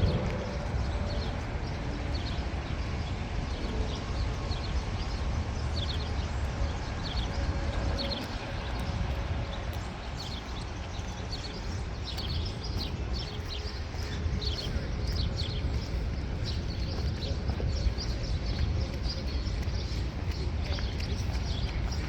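Birds chirping in short, repeated calls, thickest about halfway through, over a steady low rumble of outdoor background noise.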